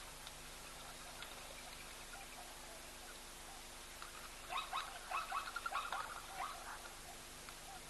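Birds chattering in a burst of quick, short calls, starting about four seconds in and lasting a couple of seconds, over a steady outdoor hiss.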